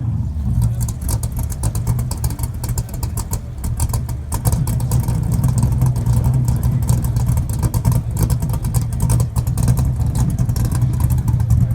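Car engine running with a steady low exhaust rumble, which eases slightly and comes back up about four seconds in.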